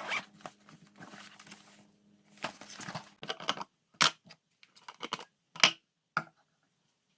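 Lunchbox containers and food packaging being handled: rustling for the first couple of seconds, then a string of sharp clicks and taps, the loudest about a second before the end of the activity.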